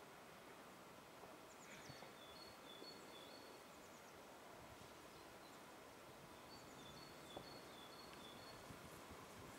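Very quiet outdoor ambience near silence, with distant small birds giving thin, high calls: short notes repeated again and again, and now and then a quick cluster of high chirps.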